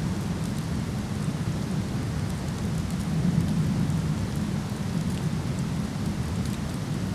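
Steady low roar of a waterfall, with faint, scattered crackles of burning wood from a campfire.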